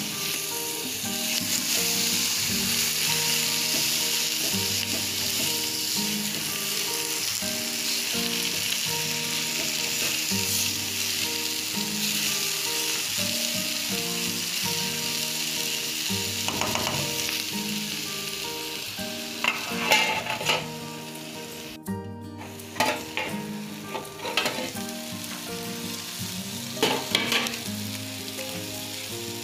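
Soy mince with chopped tomatoes, green pepper and onion sizzling steadily in an aluminium frying pan. A spatula scrapes and knocks against the pan in several short bursts in the second half.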